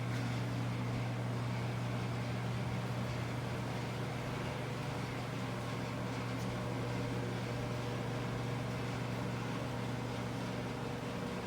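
Steady low machine hum over an even hiss, holding level without a break and easing slightly near the end.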